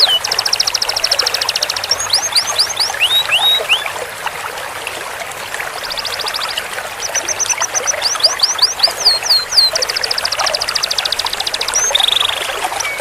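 Domestic canary singing: long, fast rolling trills of evenly repeated high notes, alternating with runs of short downward-sweeping whistled notes.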